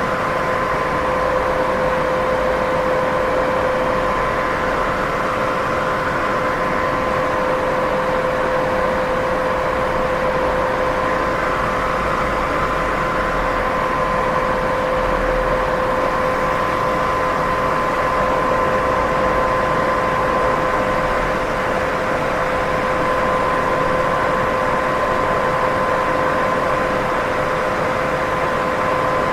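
Steady white-noise sleep sound: an even, unchanging hiss, fullest in the middle range, with a faint steady hum at two pitches running through it.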